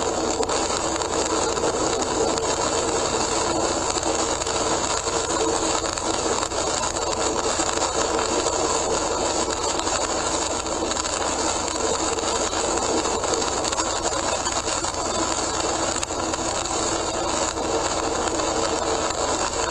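Steady road and tyre noise of a car driving on a rain-soaked expressway, heard from inside the car through a dashcam's microphone.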